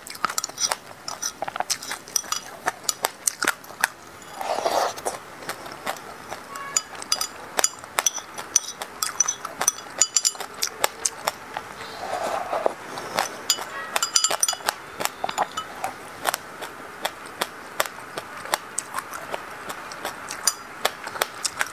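Close-miked eating of sesame seeds in passion fruit juice: a steady run of tiny crackling crunches as the seeds are chewed, with a metal spoon clinking against a glass bowl. Twice, about five and twelve seconds in, there is a short slurp of the liquid from the spoon.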